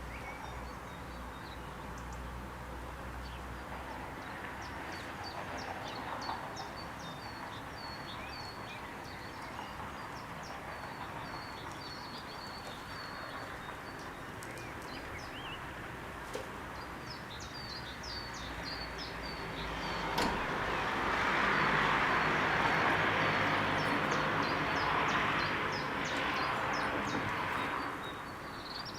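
Birds chirping in short, rapidly repeated high notes over a steady outdoor hiss. The hiss swells louder for several seconds in the later part, starting with a sharp click.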